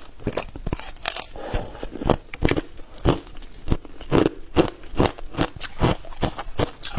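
Hard ice cubes being bitten and chewed, a steady run of sharp, crackling crunches about three a second.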